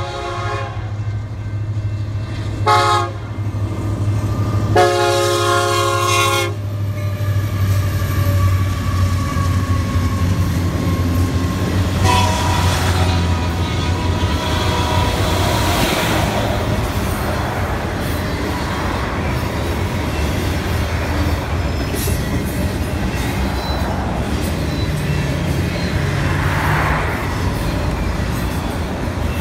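Freight train's diesel locomotive horn sounding two longer blasts with a short one between them in the first six seconds, the usual warning for a road crossing. Then the steady rumble and clatter of double-stack container cars rolling past.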